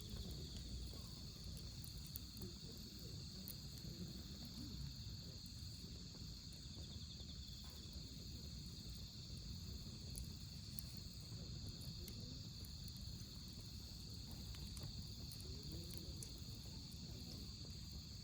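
Crickets and other autumn insects chirping steadily in several high-pitched bands, over a low rumble, with scattered faint crackles from a wood fire.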